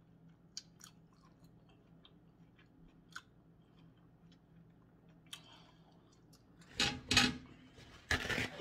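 Close-miked chewing of a mussel: soft wet clicks and smacks of the mouth. Near the end, two loud rustling bursts as paper towels are pulled off.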